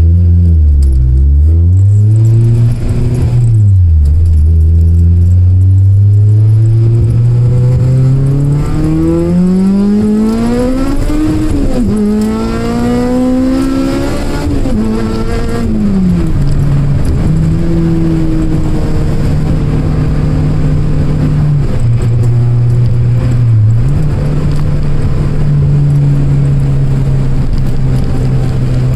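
Honda K24 engine in a 1993 Civic revving briefly, then pulling hard with its pitch climbing for several seconds, dropping briefly and climbing again. About halfway through it falls back to steady running at a lower pitch, with a couple of short dips.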